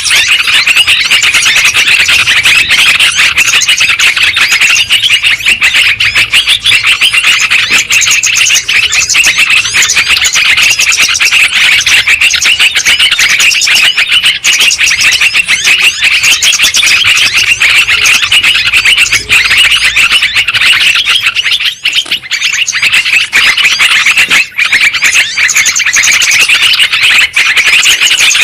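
Yellow-vented bulbuls (trucukan) calling and chattering densely and without pause, many quick chirps overlapping in one loud, high-pitched stream. This is a bird-lure recording, played to draw in or set off trucukan.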